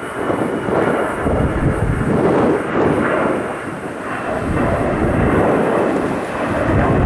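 Airliner engines rumbling loudly as an aircraft passes during takeoff or landing, the rumble swelling and easing, with a faint steady whine above it.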